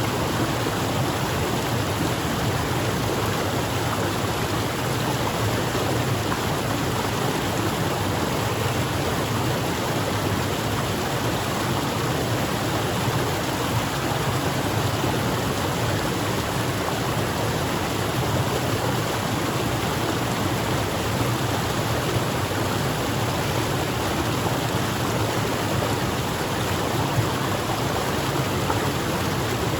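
Waterfall: water pouring and splashing in a steady, even rush that doesn't change.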